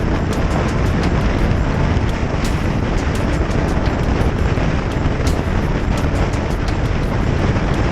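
Wind and road noise on a moving motorcycle: heavy, steady wind rumble on the camera microphone, with frequent brief crackles.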